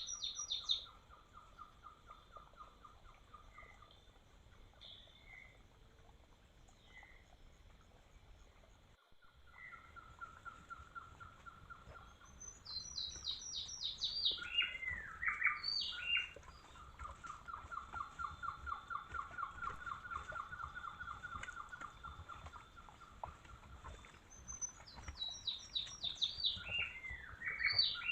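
Forest songbirds singing. One bird repeats a quick descending series of high notes about every 12 seconds, and another gives long, even trills at a lower pitch, with a few scattered single chirps.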